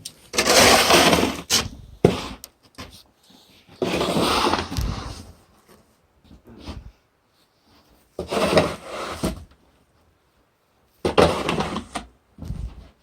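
Four rough scraping or rubbing strokes, each a second or so long and a few seconds apart, with a few short knocks in between.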